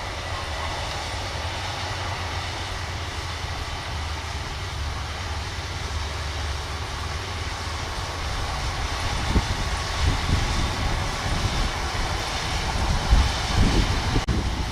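Kubota DC-105X combine harvester running steadily, a continuous mechanical drone of engine and threshing gear. Irregular low thumps join in from about nine seconds in.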